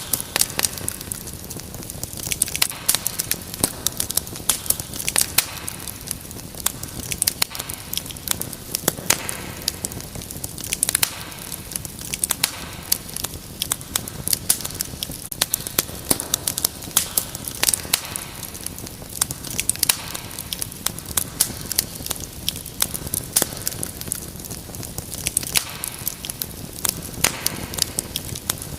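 Wood fire crackling: dense, irregular sharp pops and snaps over a steady low hiss.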